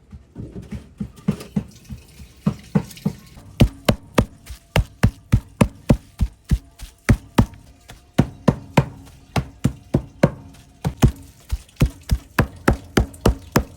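Knife chopping on a wooden cutting board: a run of sharp strokes, about two to three a second, lighter and uneven at first and then steadier and sharper from about three and a half seconds in.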